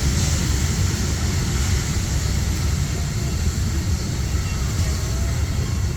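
Historic train running along the track: a steady, loud low rumble.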